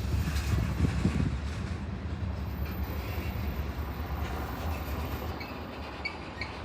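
Train rolling past on the rails, a steady low rumble of its cars that slowly fades, with a few faint high clicks near the end.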